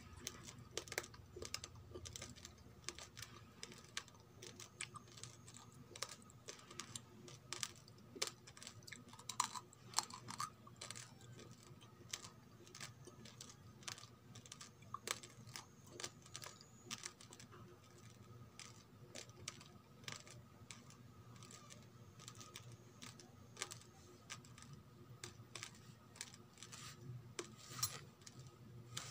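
Raw rice grains crunched between the teeth while chewing: a dense, irregular run of sharp little cracks and clicks.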